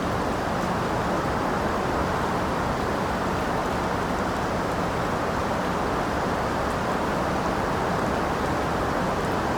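Steady, even rain, a dense hiss weighted toward the low and middle range, with a few faint high ticks of drops.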